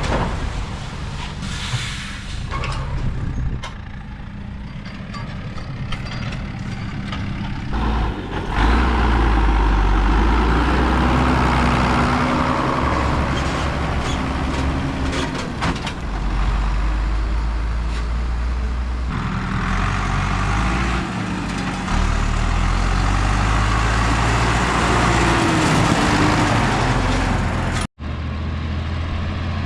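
Heavy farm tractor diesel engines running under load, their pitch and loudness shifting a few times as the engine note changes. The sound drops out for a moment near the end.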